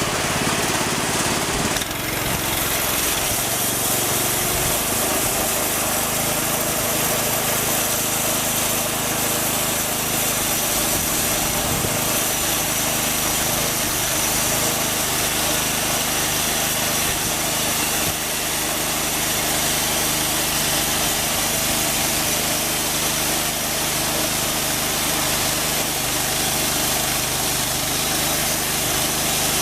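Small engine of a homemade band sawmill running steadily; about two seconds in a strong high hiss comes in and then holds.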